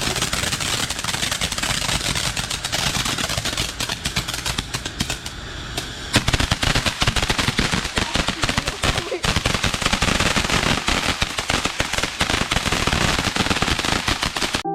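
A string of firecrackers going off in a rapid, continuous crackle. It thins out briefly about five seconds in, then picks up again loudly.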